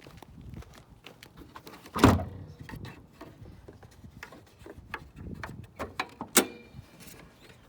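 Metal clunks and clicks of a 2003 Subaru Outback's hood being opened and propped: a heavy clunk about two seconds in and a sharp clack with a short ring a little after six seconds, with small clicks and rattles between.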